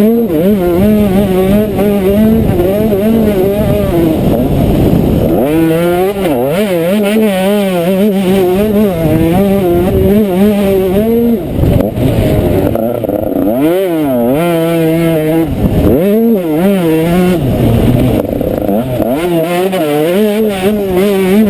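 Motocross bike engine revving hard under throttle, its pitch climbing and wavering and then dropping sharply several times as the throttle is shut and opened again.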